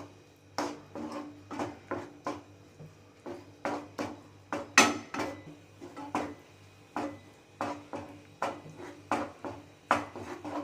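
A spoon stirring a cornflour-thickened sauce in a cooking pan, scraping and knocking against the pan in an irregular run of strokes about twice a second, with one louder clank a little before the middle.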